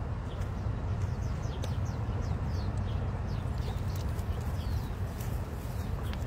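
Birds chirping: many short, quickly falling chirps, repeated irregularly, over a steady low rumble.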